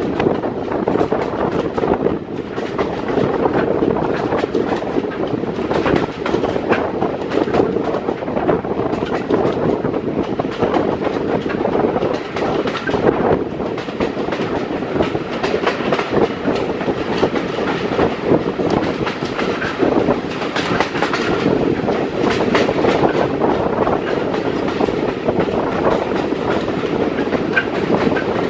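Heritage passenger train running along the line, heard from on board: the steady noise of steel wheels on rail, with a continual irregular clickety-clack of the wheels over rail joints.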